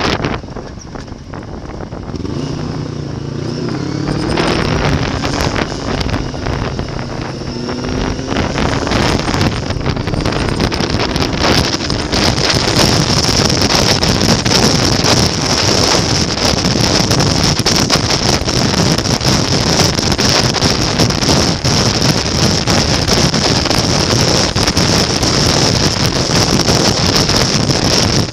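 Motorcycle engine accelerating, its pitch climbing in steps as it goes up through the gears, then covered by steady wind rush on the microphone at riding speed.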